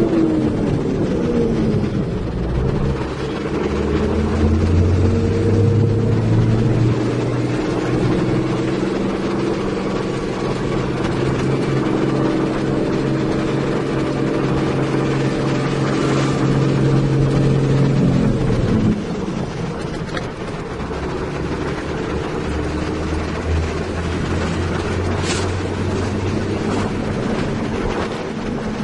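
Heavy diesel engine of construction machinery running under revs, its pitch falling in the first two seconds and then holding steady; about two-thirds of the way through the revs drop suddenly and it runs on at a lower speed.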